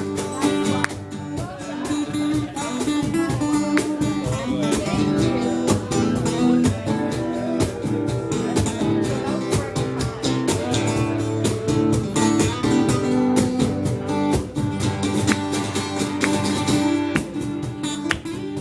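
Acoustic guitar strummed in a steady rhythm with no singing, an instrumental passage linking two songs in a medley.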